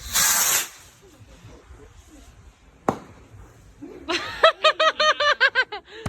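A person laughing in a quick, high-pitched run of giggles in the last two seconds, after a short hiss at the start and a single click.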